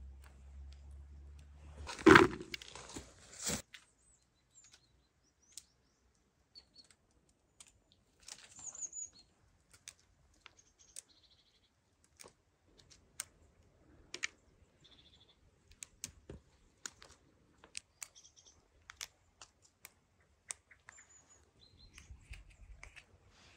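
Short, scattered bird chirps among many small, sharp clicks, with a brief loud burst of noise about two seconds in.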